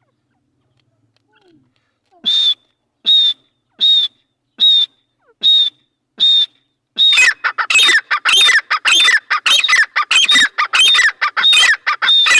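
Partridge (teetar) calling: after a short silence, six sharp, loud calls about a second apart, then from about seven seconds in a fast, overlapping run of calls.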